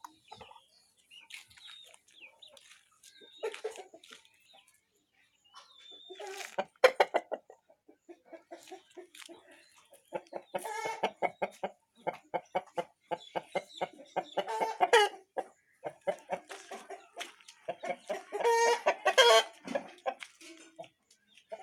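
Chickens clucking: bouts of quick, repeated clucks with short pauses between them.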